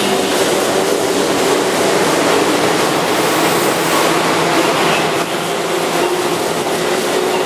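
Keihan 2200-series electric commuter train moving along the station platform: a steady, loud rumble of wheels on rail and running gear.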